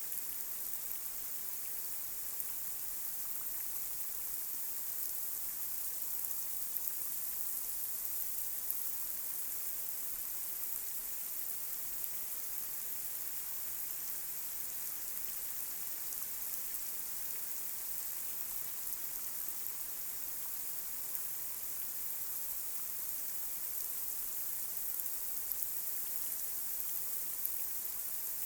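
Light rain falling on a street: a steady high hiss with scattered drop ticks.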